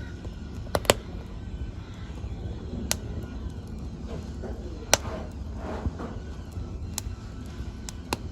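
Wood fire burning in a fireplace: a low steady rumble of flames broken by sharp crackles and pops, about half a dozen, with the loudest pair about a second in.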